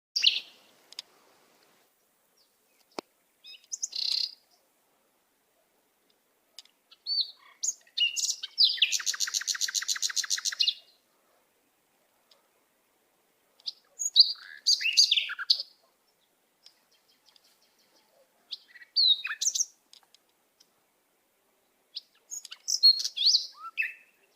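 A songbird singing in short separate phrases of high chirps and whistles with pauses between them, and a fast rattling trill lasting about two seconds around nine seconds in.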